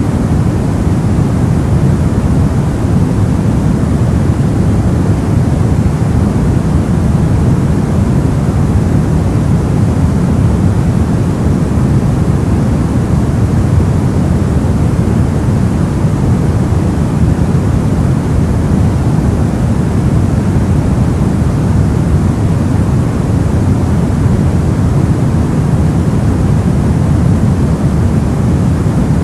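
Soft white noise for sleep: a steady, unchanging rushing hiss weighted toward the low end, deep and muffled rather than bright.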